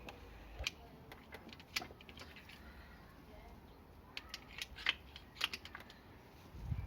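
Scattered light clicks and taps of tools and metal parts being handled, more of them in the second half, with a dull low thump near the end.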